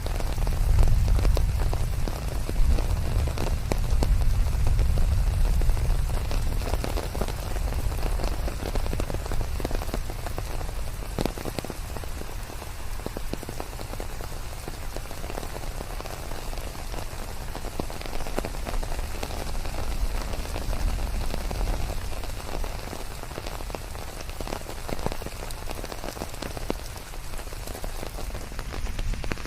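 Steady heavy rain in a forest, mixed with white noise, with many individual drops heard as fine ticks over a deep low rumble. It is a little louder in the first few seconds, then settles.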